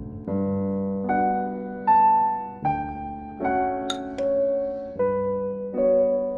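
Background music: soft piano chords and notes, changing about once a second.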